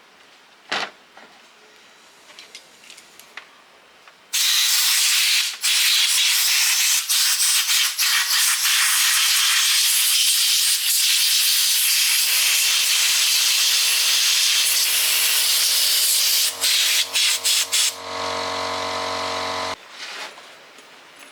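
A power tool abrading metal: a loud, steady rasping hiss starts about four seconds in and breaks off briefly now and then. A steady motor hum joins partway through, and both cut off abruptly near the end.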